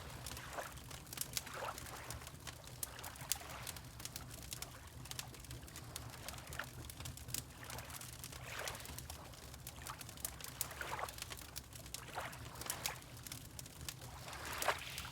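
Wood fire crackling with many small sharp pops, over a steady low rumble, while small waves lap irregularly against a shore.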